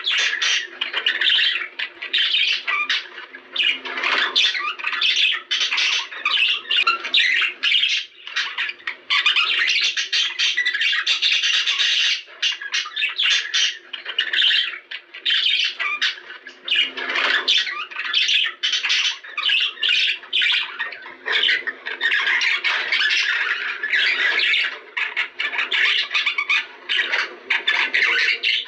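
Budgerigars chattering and squawking, a dense unbroken stream of overlapping chirps and squawks from several birds.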